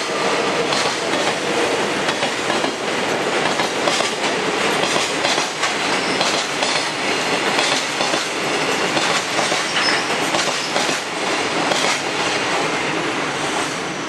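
Freight train container wagons rolling past, their wheels clattering over the rail joints in an uneven clickety-clack. The rumble eases off a little near the end as the last wagon draws away.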